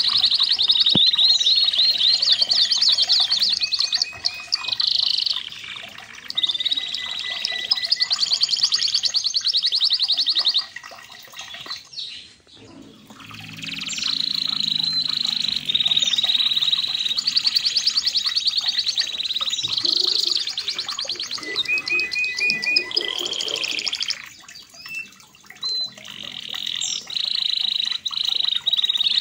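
Red canary singing long, rapid trills and rolls, high in pitch, with a short break about twelve seconds in and a brief dip near the end.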